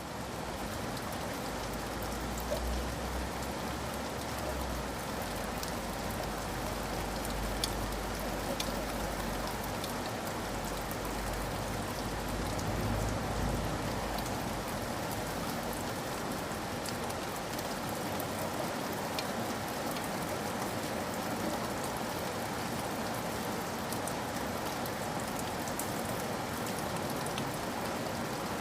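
Steady rain falling, with scattered sharper drop ticks over an even hiss. A low rumble sits under it for roughly the first dozen seconds, then fades.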